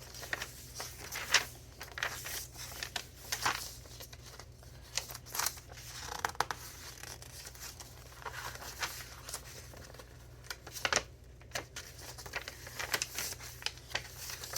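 Pages of a large handmade junk journal, made of mixed papers, being turned and handled: irregular rustles and crinkles of paper.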